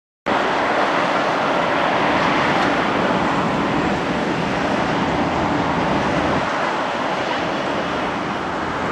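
Jet engine noise from a Boeing 737-800 and its CFM56-7B turbofans: a loud, steady rush that cuts in abruptly just after the start and holds level.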